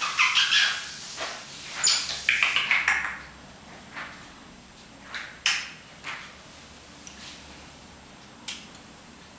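African grey parrot making a run of short, raspy, chattering calls for about three seconds, followed by a few isolated sharp clicks.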